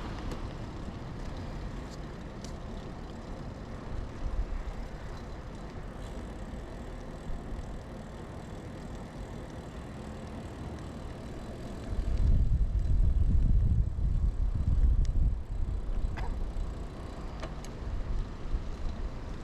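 Riding noise from a 2000 Kona Blast mountain bike on pavement: tyre and road rumble with wind on the microphone and a few faint clicks. A louder low rumble comes in about twelve seconds in and lasts a few seconds.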